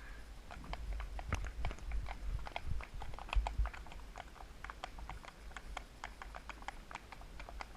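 Irregular clicking and clinking of a ridden horse's bit and tack as the horse mouths the bit, over a low steady rumble.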